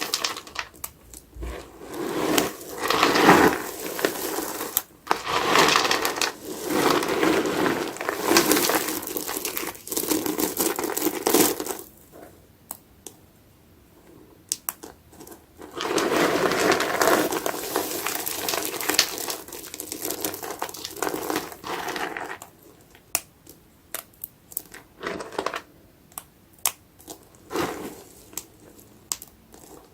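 Soap-soaked sponge being squeezed and squished, the foam squelching and crackling in long stretches of several seconds, with quieter spells of small crackles and pops between them.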